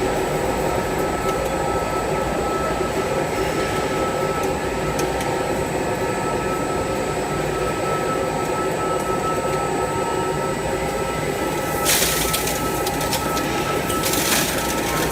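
XGY-U30NC milling head running on a milling machine: a steady mechanical hum with a constant whine. Two short bursts of hiss come near the end.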